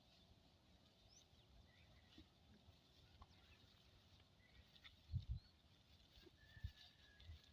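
Quiet countryside ambience: faint, scattered bird chirps, with a couple of soft low thumps about five seconds in.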